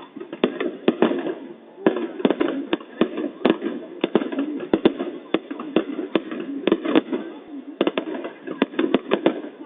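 New Year fireworks going off, a rapid irregular series of sharp bangs, several a second, over the murmur of a watching crowd's voices.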